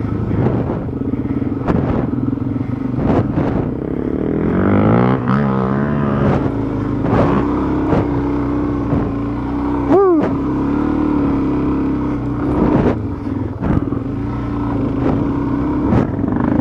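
Dual-sport motorcycle engine running steadily, its revs wavering up and down a few seconds in and blipping sharply up and back down about ten seconds in. Scattered short knocks and clacks are heard throughout.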